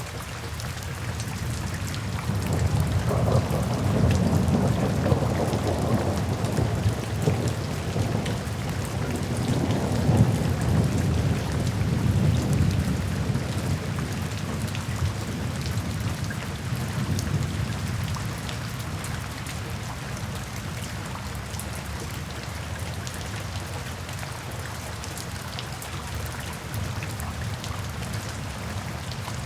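Steady rain with a long roll of thunder that builds about two seconds in, rumbles for several seconds and fades away over the following stretch.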